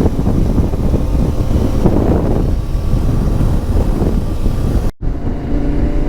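Wind buffeting a rider's microphone while a motorcycle runs along at road speed, with the engine's drone underneath. About five seconds in the sound drops out for a moment at a cut, then returns with the engine's steady hum more distinct.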